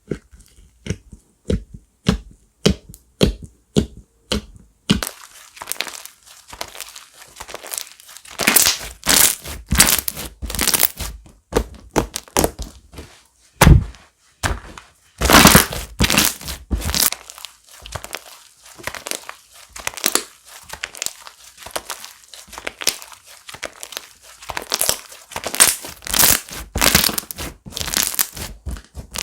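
Crunchy slime being pressed and squeezed by hand, crackling and popping. Sharp separate pops come a few to the second for the first five seconds, then denser, louder crunching and crackling as it is worked.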